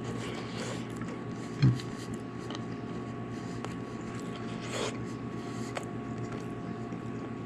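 Chewing a bite of crispy breaded chicken tender, with faint crunches, over a steady low hum. A brief low thump about two seconds in is the loudest sound.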